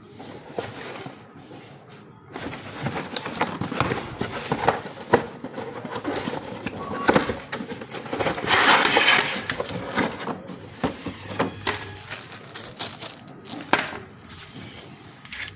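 Packaging being opened and handled during an unboxing: rustling and crinkling with many scattered clicks and knocks, busiest in the middle.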